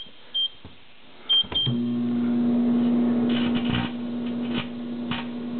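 Microwave oven keypad beeping four times, then the oven starting up and running with a steady electrical hum. Several sharp snaps sound over the hum in the second half.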